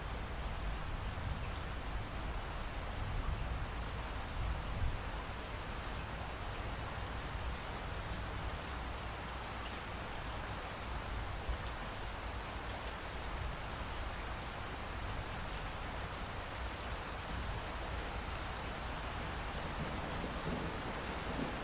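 Steady, continuous rush of falling water: an even hiss with a low rumble underneath and no distinct events.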